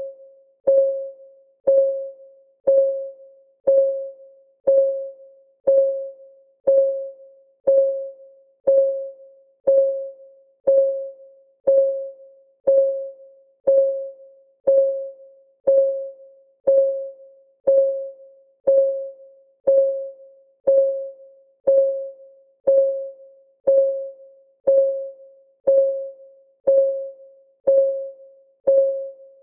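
Clock ticking sound of a countdown timer: one tick a second, steady and even, each a sharp click with a short pitched ring that dies away quickly.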